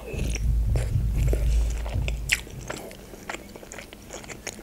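Close-miked chewing of a spoonful of kufta soup with meatball and potato, with wet mouth sounds. A low rumble runs through about the first two seconds, and scattered sharp clicks follow.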